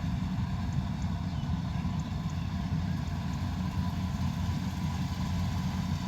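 Combine harvester's engine running steadily, a low, even rumble with a faint steady whine above it.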